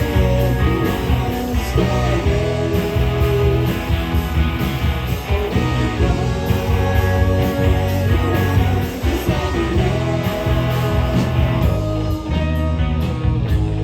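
Live rock band playing: electric guitars over bass and drums, loud and steady.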